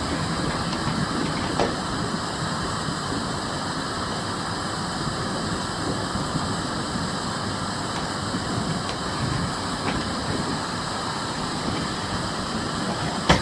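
Miele Blizzard CX1 bagless cylinder vacuum cleaner running steadily while vacuuming, with a sharp click near the end.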